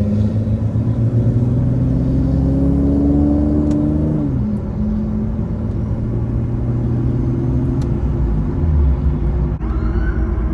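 Infiniti G37's 3.7-litre VQ37 V6 with a loud exhaust, heard on the move: the revs climb steadily for about four seconds, then drop sharply and settle into a lower steady run.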